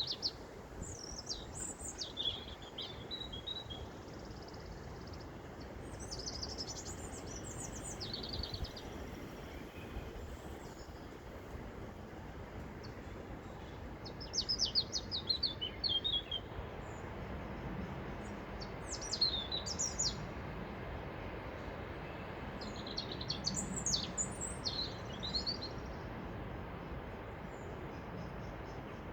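Songbirds singing short phrases of quick high notes, about half a dozen phrases with pauses between, over a steady wind noise.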